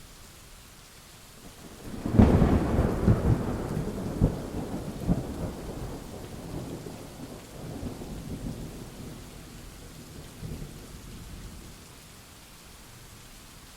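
Thunderstorm: a steady hiss of rain, then a thunderclap about two seconds in that cracks loudly and rolls on in rumbles for several seconds, fading out near the end.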